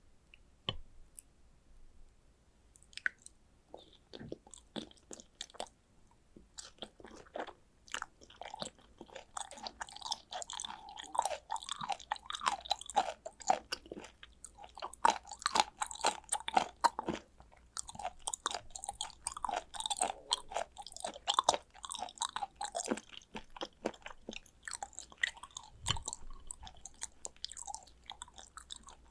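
Close-miked chewing of raw tuna sashimi: a few scattered clicks at first, then, from about a quarter of the way in, dense, irregular wet mouth clicks and smacks.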